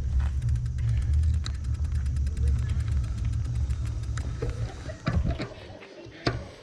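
Wind buffeting the microphone while riding a bicycle, a heavy low rumble with a fast, even ticking over it for the first few seconds. The rumble falls away about five seconds in, leaving a few sharp clicks.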